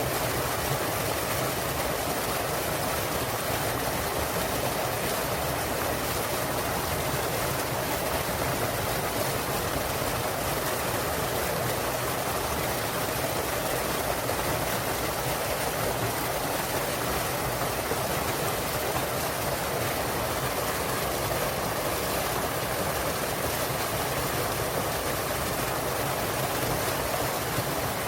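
Small waterfall pouring into a mountain stream: a steady, even rush of water.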